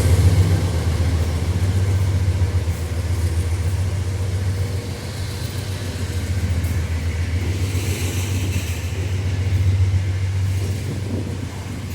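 Wabtec AC44i diesel-electric locomotives working under load, a steady deep engine drone with the rumble of a loaded ore train as it starts to pick up speed.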